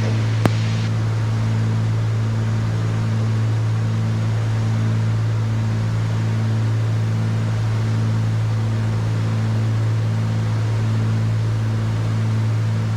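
Cessna 310Q's twin piston engines and propellers droning steadily in the cockpit, with a regular pulsing beat about once a second. A short click sounds about half a second in.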